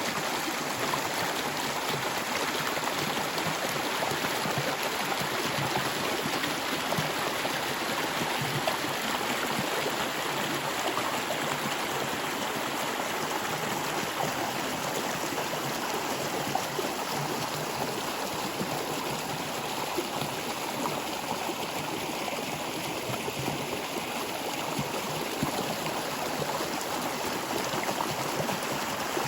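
Water flowing in a stream, a steady even rush without pauses.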